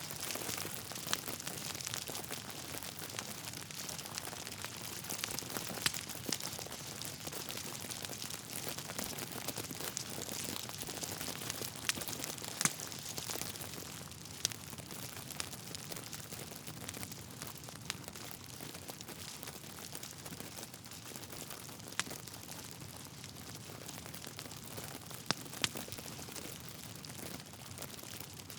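Wood fire burning in a fireplace: logs crackling continuously over a soft hiss, with sharper pops every few seconds.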